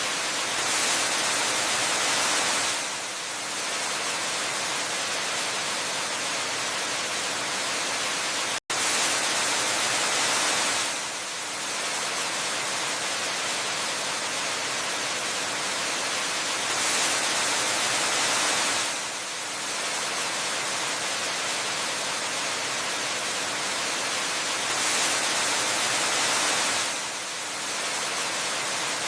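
Steady rushing of a waterfall, an even hiss of falling water that swells a little louder about every eight seconds. It cuts out for an instant about a third of the way through.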